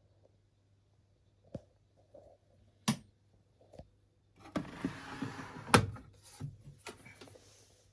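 A few separate sharp clicks, then a second and a half of rustling with knocks, the loudest click in the middle of it, and a few more clicks near the end, over a faint steady hum.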